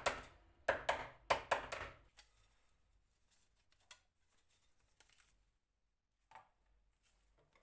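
Four quick, sharp knocks in the first two seconds, then quiet with a few faint clicks.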